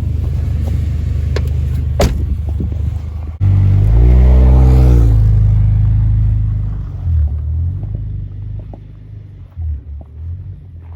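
Car engine running, then, after an abrupt change, revved up once about four seconds in and let fall back. Its speed then wavers and dips unevenly several times in the second half.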